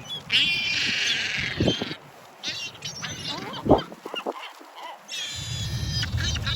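Seabirds calling in harsh, rapid cries: two long runs of calls of a second or more each, with shorter calls between. There are a couple of low knocks, the loudest about three and a half seconds in, and a low rumble, likely wind, starts about five seconds in.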